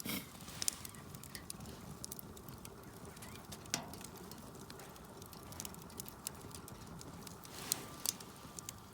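Campfire of thin scrap firewood crackling in a fire pit: irregular sharp pops and ticks, a couple of louder ones about four and eight seconds in.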